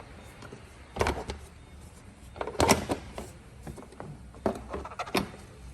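Plastic engine cover and oil filler cap being worked off by hand: a string of clicks, knocks and clatter, the loudest cluster about two and a half seconds in.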